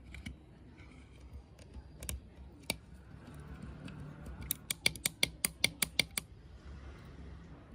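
A few scattered sharp clicks, then a quick run of about nine sharp clicks, some five a second, lasting under two seconds past the middle.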